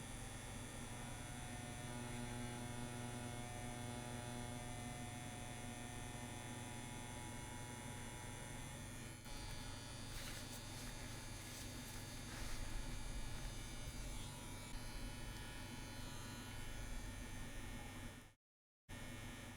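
CNC WE tattoo machine buzzing steadily as it runs. The sound cuts out for a moment near the end.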